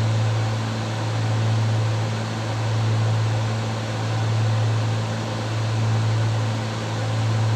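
The cabin drone of a Cessna 310's twin piston engines and propellers in cruise: a steady low hum over air noise. The level swells and fades about every second and a half, the beat of two propellers turning at slightly different speeds.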